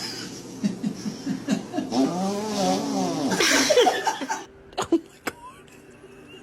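A person laughing in a run of short bursts, rising into a longer cackle. About four and a half seconds in, it cuts off to a quieter stretch with a few sharp clicks.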